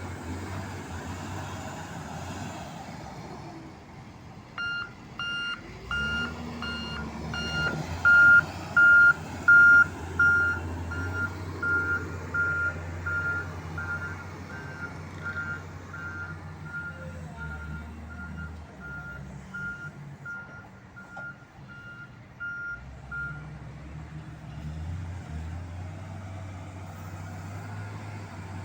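Reversing alarm of a heavy vehicle beeping evenly, about one and a half beeps a second. It starts a few seconds in, is loudest soon after, fades, and stops a few seconds before the end, over the steady low hum of the vehicle's engine running.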